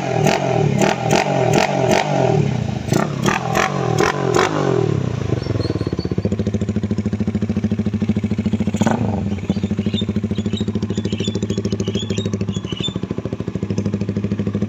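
Honda Tiger motorcycle with a swapped-in DOHC K15 single-cylinder engine, revved in quick repeated blips for the first few seconds, then settling to a steady idle. A single sharp click comes about nine seconds in.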